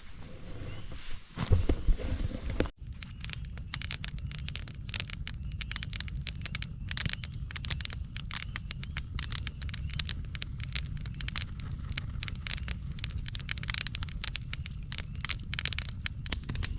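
Campfire crackling and popping in quick irregular snaps over a low steady rumble, starting right after a brief break about three seconds in. Before the break, a couple of loud thumps.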